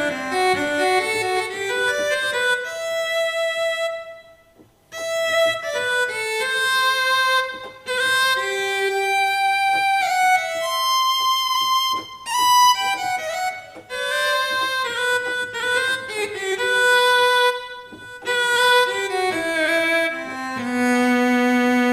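Roland GW-8 keyboard playing a single-line melody on a sustained lead tone, in short phrases with brief pauses between them.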